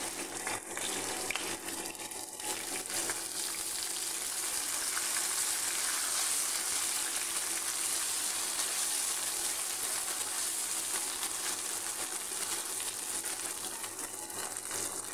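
Raw rice sizzling in a frying pan as it is sautéed with garlic and stirred with a wooden spatula. A steady hiss that grows a little louder toward the middle and eases near the end.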